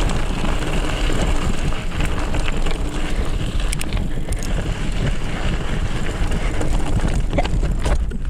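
Wind buffeting the microphone of a camera on a moving mountain bike, a steady loud rumble, with scattered clicks and rattles from the bike over the rough trail.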